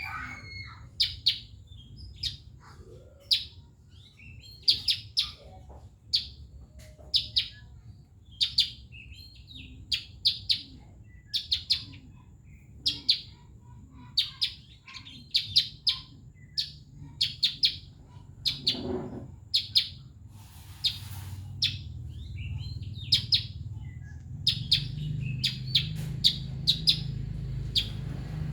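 Small songbird known locally in Java as the bayeman, calling over and over: short, sharp, high chirps, often in quick pairs or threes, roughly one burst a second. A low steady hum lies underneath and grows louder near the end.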